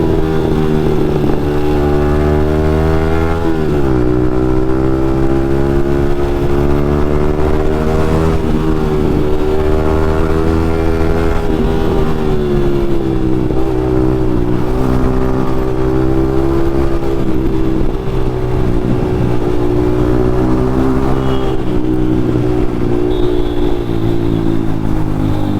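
Yamaha MT-15's single-cylinder engine through an aftermarket Akrapovic exhaust, ridden hard through traffic: the engine note rises and falls with the throttle and gear changes, with a sharp drop in pitch a few seconds in and a falling note near the end. Wind on the microphone.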